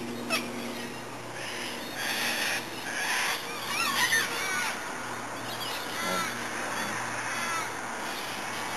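Birds calling, a series of short, harsh, crow-like calls with a few warbling glides.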